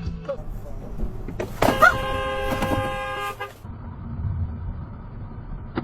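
Car horn blown in one held blast of about two seconds, starting about one and a half seconds in, with a few sharp knocks as it starts, over steady low road and engine noise.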